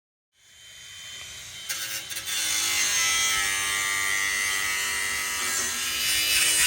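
Handheld electric power tool motor starting up, running at full speed with a buzzing whine, and switched off at the end.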